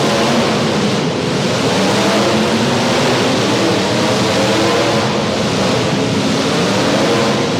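Several demolition derby cars' engines running hard at once, revving up and down in a loud, continuous mix with no distinct crashes.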